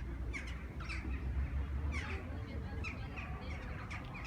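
Birds calling, short downward-sliding calls repeated several times a second, over a steady low rumble.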